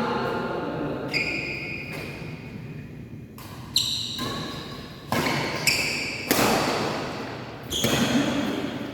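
Badminton rackets striking a shuttlecock during a rally: six or so sharp hits with a brief ringing ping, about half a second to a second and a half apart, echoing in a large hall.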